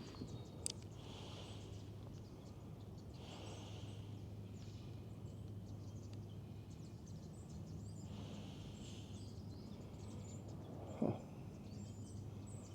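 Faint outdoor background with a steady low hum, scattered faint high chirps and ticks, and one short sharp knock about eleven seconds in.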